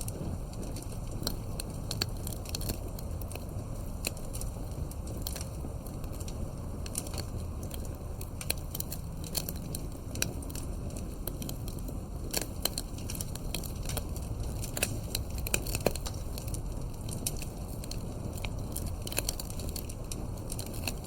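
Wood fire crackling steadily, with frequent sharp pops and snaps over a low, even rumble.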